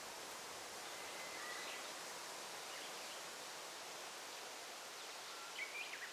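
Daytime forest ambience: a steady hiss of rustling leaves, with faint bird chirps and one short bird call near the end.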